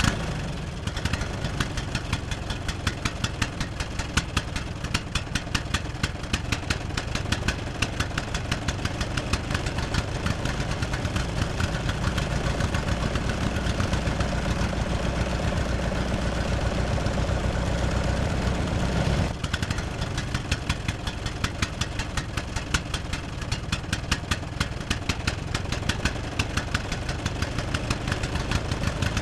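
An engine running at idle with a steady, regular knocking beat. Its tone shifts slightly about nineteen seconds in.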